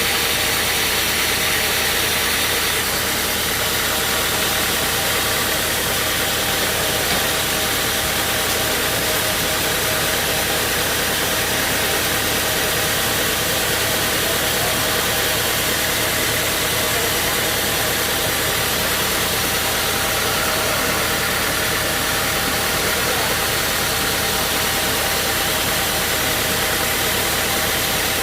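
Sawmill machinery engine running steadily under a constant heavy noise, with no change in pitch or load.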